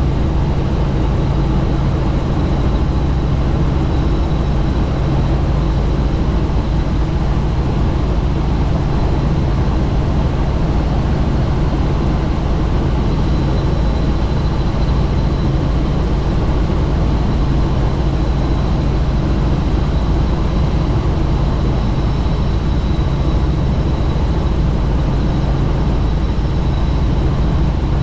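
Helicopter in flight heard from on board: a loud, steady drone of rotor and engine with a thin high whine running through it.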